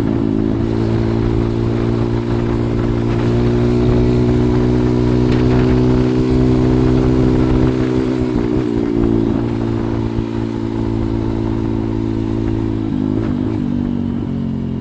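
Single-cylinder four-stroke engine of a 140cc pit bike running steadily under way, its pitch briefly wavering about halfway and again near the end.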